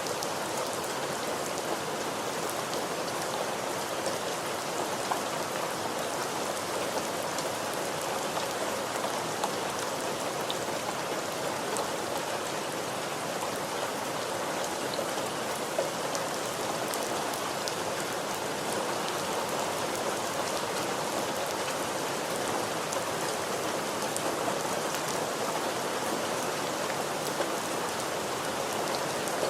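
Steady rain falling, a constant hiss with many small drop ticks spattering on a surface.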